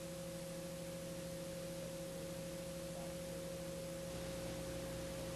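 Steady electrical hum made of a constant mid-pitched tone over lower hum tones and a faint hiss, unchanging throughout.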